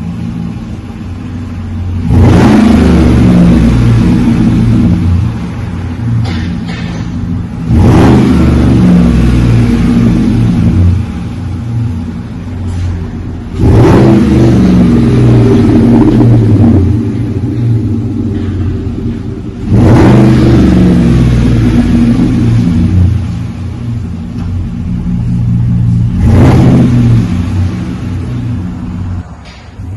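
A 2018 Chevy Tahoe's 5.3-litre V8 idles through a custom cat-back dual exhaust with a Flowmaster 40 muffler, the factory converters still in place. It is revved five times, about every six seconds, each rev held for a couple of seconds before it drops back to idle.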